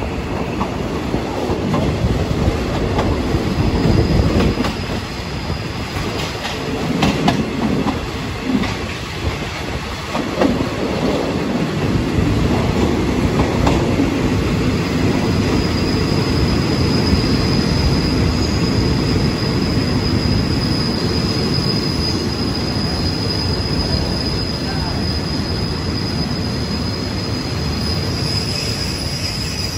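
Passenger train rolling slowly into a station. Wheels clack over rail joints in the first several seconds above a steady low rumble, then a high, steady wheel-and-brake squeal sets in from about halfway as the train slows.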